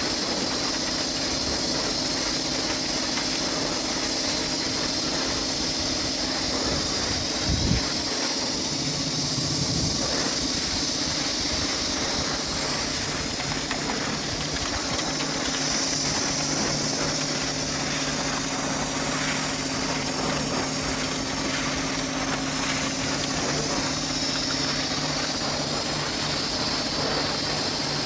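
Pressure washer spraying water, a steady hiss over the even hum of a running motor, with a single low thump about a third of the way in.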